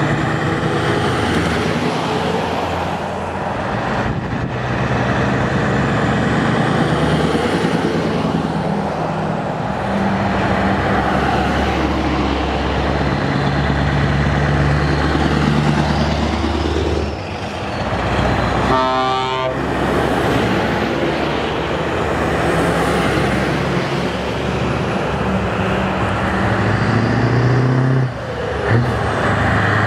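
Heavy trucks' diesel engines running and passing, with horns sounding; a short horn blast stands out about two-thirds of the way through.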